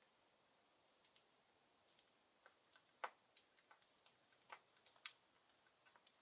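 Budgies pecking at chopped fruit and vegetables in their food bowl: faint, irregular small clicks and taps, busiest and loudest in the middle.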